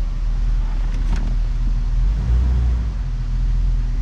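Jeep Wrangler engine idling in reverse gear, a steady low hum. The engine is misfiring on cylinder 1 after a spark plug was moved there, which the mechanic takes as proof that the plug causes the misfire.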